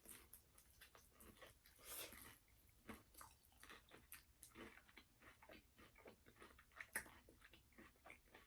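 Close-up mouth sounds of someone chewing a bite of KFC fried chicken dipped in gravy: a run of soft, short smacks and crunches.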